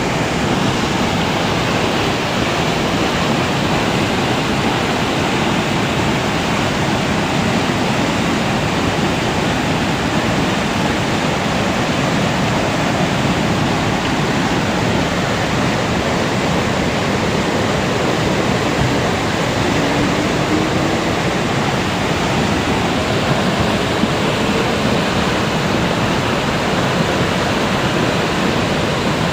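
Small river in spate after rain: a loud, steady rush of fast, churning floodwater.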